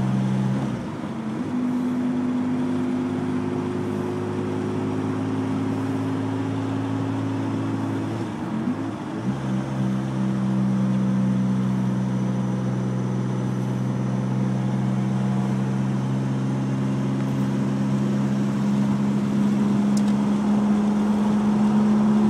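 Rossion Q1's single-turbo V6 heard from inside the cabin at a gentle cruise: a steady engine drone. The note breaks briefly and settles at a new pitch about a second in and again about nine seconds in, as with gear changes, and grows a little louder near the end.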